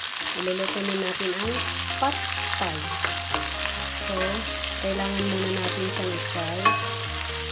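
Petai beans sizzling in hot oil in a wok as they are stirred with a wooden spatula, with one sharp knock near the end. Background music with a bass line and melody plays over it.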